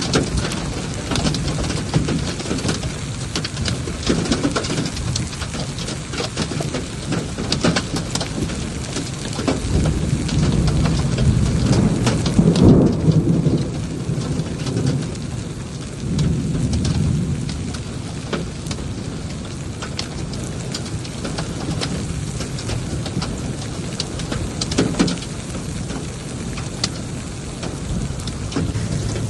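Heavy rain falling steadily, with many drops ticking on hard surfaces. Low rolling thunder swells up about ten seconds in, loudest a couple of seconds later, and rolls again a few seconds after that.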